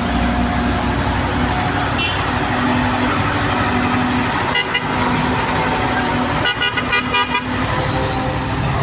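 Truck engine running steadily, with short horn toots: one about two seconds in, a couple more near the middle, and a quick string of toots from about six and a half to seven and a half seconds in.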